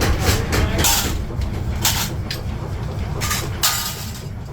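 Metalworking shop machinery running with a steady low drone, with five sharp metallic hits or scrapes spread through; one near the end rings briefly.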